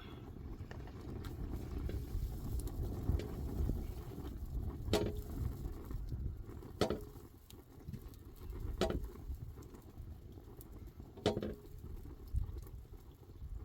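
Four sharp knocks, about two seconds apart, over a steady low rumble.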